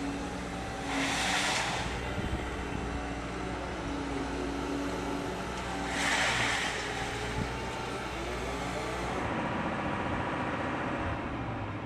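Heavy machinery in a scrap yard running steadily with a held engine note, broken by two short, loud hissing rushes, one about a second in and one about six seconds in.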